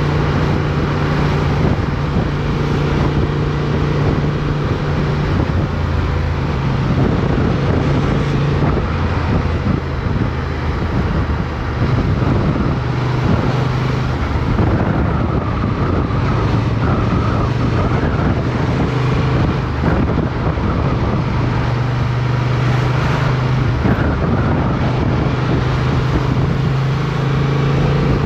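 Motorcycle engine running under way, heard from an onboard camera, with its pitch shifting as the rider changes speed through turns. Wind noise on the microphone sits under it throughout.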